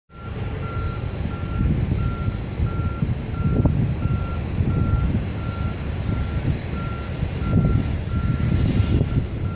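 A vehicle's reversing alarm beeping steadily, about one and a half single-tone beeps a second, over a loud low rumble that rises and falls.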